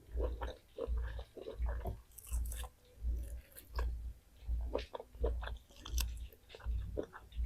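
A person chewing food close to the microphone, mouth sounds in a steady rhythm of about one and a half chews a second with wet clicks and smacks.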